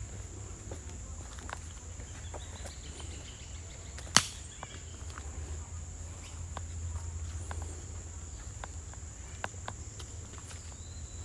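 Outdoor ambience with a steady high-pitched drone like crickets or other insects, broken by scattered light clicks and one sharp click about four seconds in.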